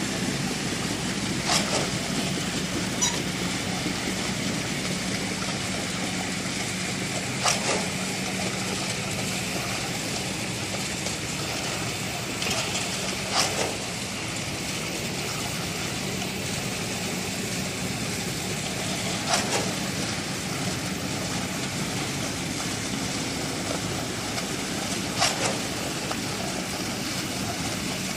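Engine running steadily, with a short sharp sound about every six seconds.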